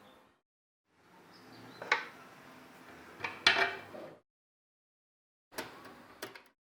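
Metal parts of a Facit typewriter being handled, with soft rubbing noise and a few sharp metallic clicks and clinks, in short spells broken by dead silence.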